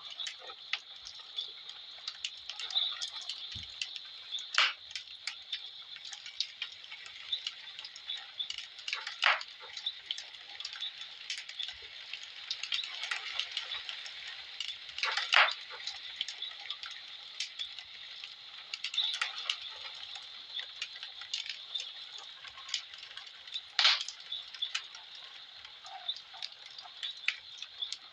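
Wood fire in a fireplace crackling, with irregular small pops and a few louder snaps over a steady hiss.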